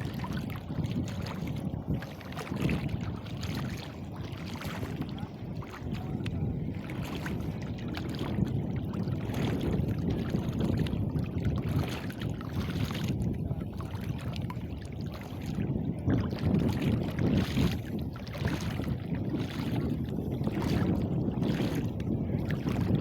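Water sloshing and splashing, with wind rumbling on the microphone in uneven surges.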